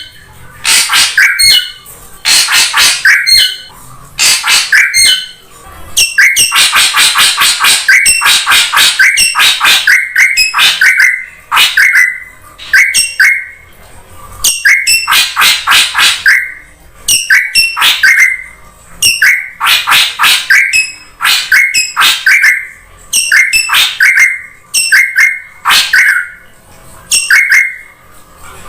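Drongo (srigunting) calls used as a bird-trapping lure: short bursts of rapid, harsh chattering notes repeated about every second or two, with a longer unbroken run of rapid notes around six to nine seconds in.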